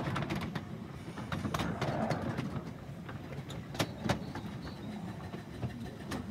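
Miniature railway train running on its track: a low rumble with irregular sharp clicks from the wheels and rails.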